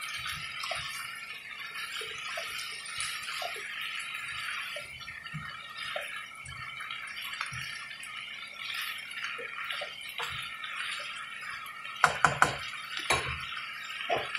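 Pork and vegetables sautéing in a large nonstick pot, a steady sizzle with soft knocks and scrapes of a plastic slotted spatula stirring. About twelve seconds in come a few sharp clinks of cookware.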